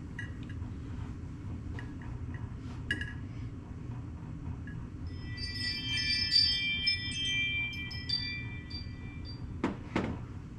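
A few light metallic clinks, then a chime-like ringing of several steady tones for about four seconds, followed by two knocks near the end, over a steady low hum.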